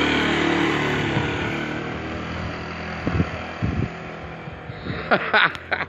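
Aprilia Habana 125 twist-and-go scooter's engine running as it rides away, its drone fading steadily into the distance. A few short, sharp pitched sounds come near the end.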